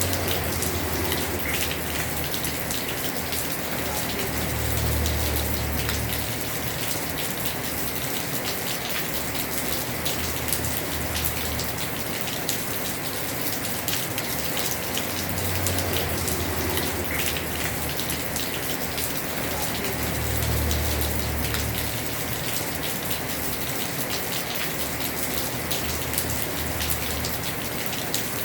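Heavy rain pouring steadily on a house roof, a dense hiss of falling water with a fine patter of individual drops. A low rumble swells and fades every few seconds beneath it.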